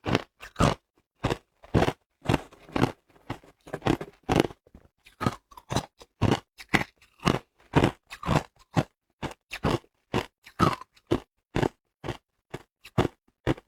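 A person chewing hard ice: a steady run of sharp crunches, about two a second.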